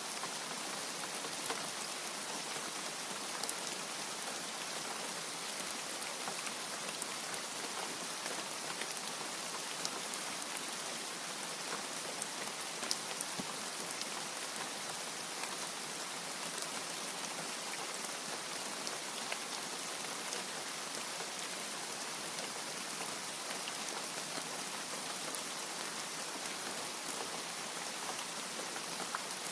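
Steady rain falling, with many scattered sharp drop ticks over an even hiss and no thunder.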